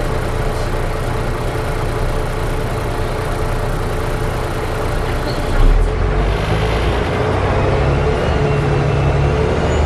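Volvo B7TL double-decker bus heard from inside while driving: steady running noise with a constant whine and the strange howling noise, a higher tone that comes up and wavers in the last few seconds as the engine note grows. A low thump about halfway through.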